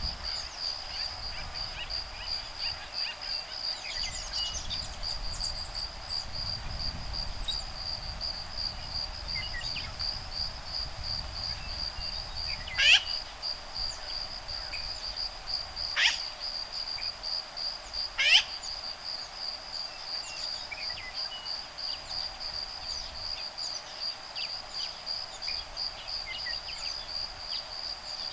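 Crickets give a steady, fast-pulsing high trill throughout, with faint scattered bird chirps. About halfway through, three loud, sharp bird calls come a few seconds apart, the calls of woodpeckers nesting in the trees.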